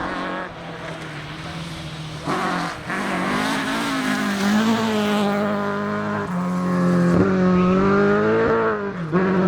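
Rally car engine running hard on a forest stage, its note wavering up and down with the throttle and growing louder as the car approaches. It breaks off briefly about two seconds in and again near the end.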